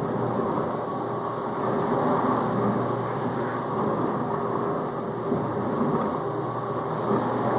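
Whirlpool dishwasher circulating water in its final rinse: the pump running and water spraying and splashing around the tub in a steady rush.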